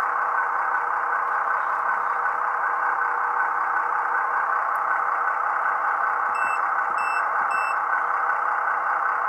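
Tsunami 2 sound decoder in an HO-scale gas turbine model locomotive playing a steady rushing turbine sound through its small speaker while the model creeps at slow speed. Near the end there are three short electronic beeps about half a second apart.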